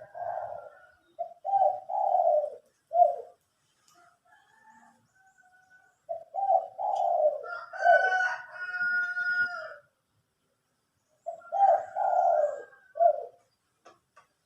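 Caged doves cooing: three bouts of low, rolling coo phrases, each a string of short and longer notes, with a higher whistled tone overlapping the middle bout.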